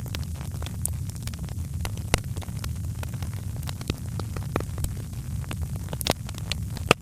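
Wood fire crackling in a fireplace: a steady low rumble under irregular sharp pops and snaps, with a louder pop near the end.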